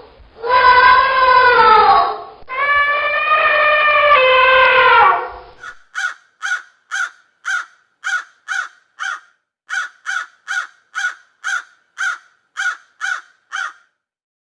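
Animal calls: two long calls that fall in pitch, then a run of short clipped calls at about two a second.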